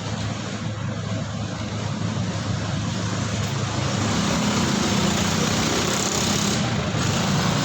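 Road traffic noise: a steady rumble of passing engines and tyres that grows gradually louder.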